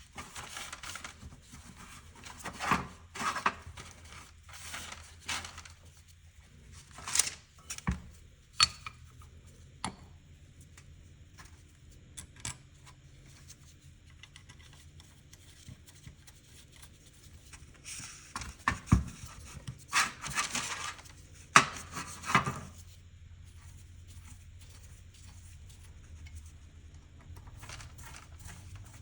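Hands working on a motorcycle carburetor at a workbench: scattered light clicks and taps of small parts and tools, with short rubbing and scraping noises, over a faint low hum.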